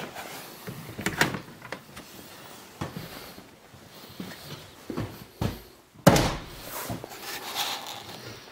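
Scattered knocks and clatters, then one loud bang about six seconds in that rings on for about a second.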